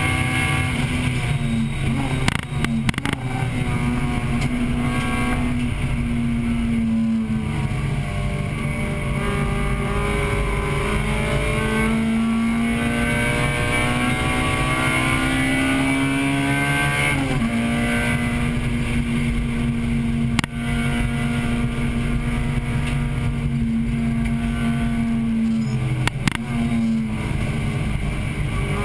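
Acura Integra Type-R's 1.8-litre VTEC four-cylinder engine running hard at high revs under race load, heard from inside the car. The pitch climbs slowly for several seconds, drops sharply a little past the middle, and dips again near the end, with a few short clicks along the way.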